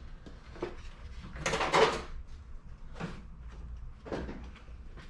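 Knocks and scraping of an air-intake pipe and filter being pushed and twisted into place in an engine bay, with a longer, louder scrape about one and a half seconds in and single knocks near three and four seconds in.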